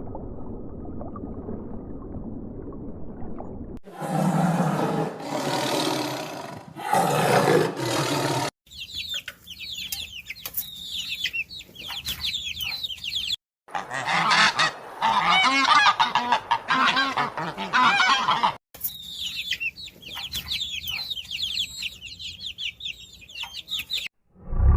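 A series of short clips of large waterfowl honking, many birds calling rapidly over one another, with abrupt cuts between clips. It opens with a few seconds of low rumbling noise.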